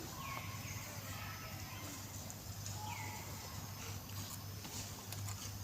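Short high animal calls: two falling squeaks about three seconds apart, with a few fainter chirps between, over a steady low hum.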